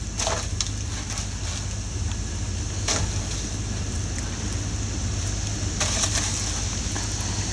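Wind rumbling steadily on the camcorder microphone outdoors in a blizzard, with a few faint knocks about three seconds apart.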